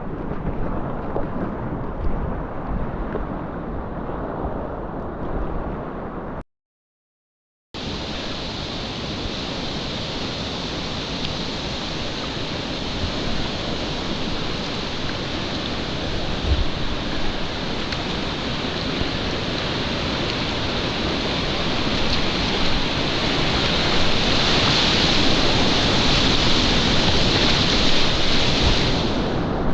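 Steady rush of a mountain-stream river flowing around the boat. About six seconds in the sound cuts out completely for about a second. When it returns it is brighter and it grows louder near the end.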